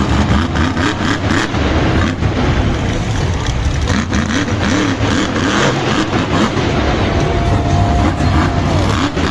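A vehicle engine revving up and down in quick, repeated blips over a heavy low rumble, with a brief high whistle-like tone about seven seconds in.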